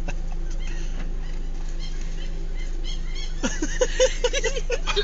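Herring-type seagulls calling in a quick run of short cries starting a few seconds in, over the steady low hum of the car's idling engine.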